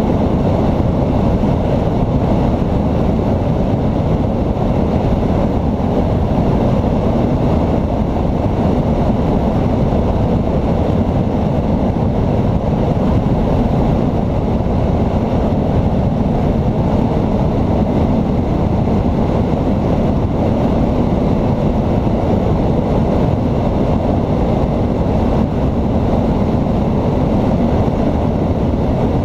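Kolb ultralight aircraft's engine running steadily at an unchanging speed: a loud, even, low drone with no rise or fall in pitch.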